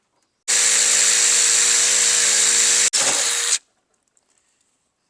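Electric drill running under load, boring a hole through thin sheet steel of a truck tailgate: one steady run of about two and a half seconds, a brief stop, then a short second burst.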